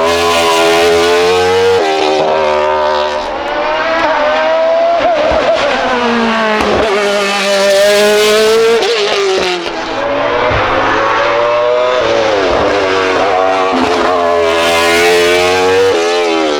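Hillclimb race car engine revving hard, its pitch climbing and then dropping sharply several times as it shifts up and down through the gears.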